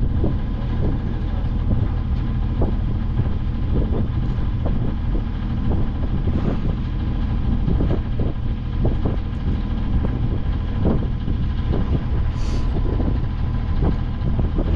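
A sailing yacht's engine running steadily under way, with a scatter of short irregular knocks over the drone.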